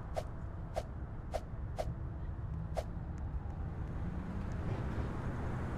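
Low rumble of a subway train, growing slowly louder, with a string of sharp clicks at uneven spacing over the first three seconds.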